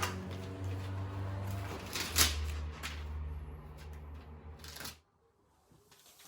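Rustling and handling noise with a few sharp clicks, over a steady low hum; it cuts to near silence about five seconds in.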